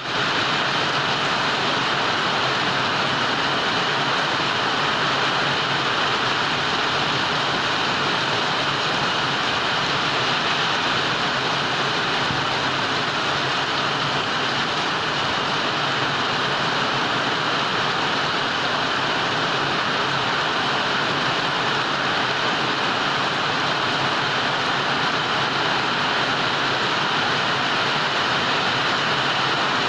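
Heavy rain pouring down steadily, a dense even hiss that never lets up.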